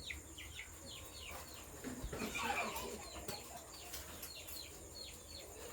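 Birds calling: a steady run of short, high, falling chirps, a few each second, with a brief louder rustling noise about two seconds in.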